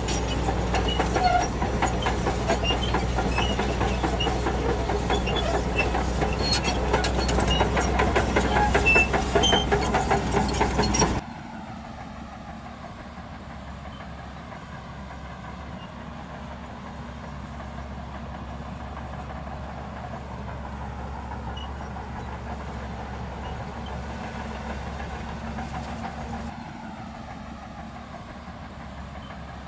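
Shantui DH17C2 crawler bulldozer working: its diesel engine running under a dense clatter from the steel tracks, loud for about the first eleven seconds. The sound then drops suddenly to a quieter, steady engine sound that slowly rises and falls in pitch.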